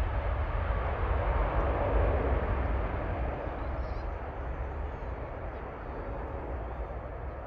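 Jet airliner engines as the plane passes: a broad rumble that swells to a peak about two seconds in, then fades away.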